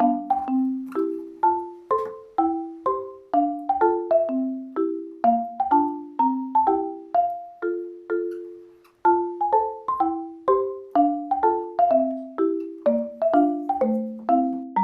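Background music: a light melody played on marimba-like mallet notes, with a brief pause about nine seconds in before it starts again.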